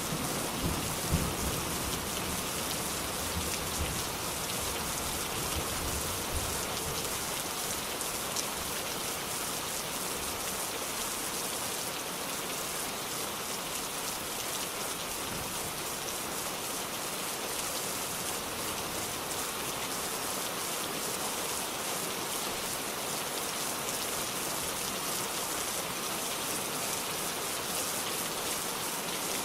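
Steady, heavy rainfall with a dense hiss of drops on surfaces. In the first several seconds a low rumble of thunder fades away.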